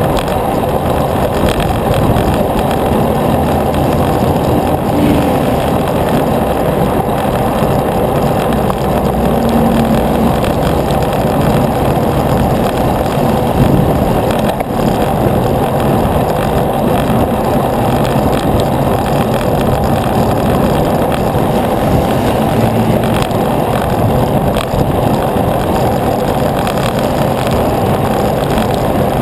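Steady loud rush of wind and road noise on the microphone of a moving bicycle, with faint engine tones of passing traffic now and then.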